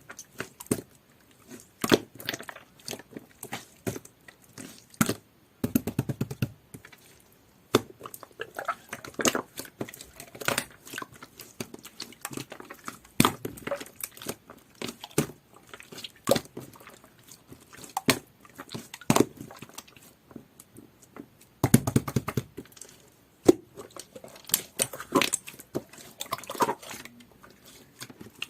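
Clear, jelly-textured slime being poked, pressed and squished by hand, giving a string of sharp clicky pops and sticky crackles, with longer squelching squeezes about 6 and 22 seconds in.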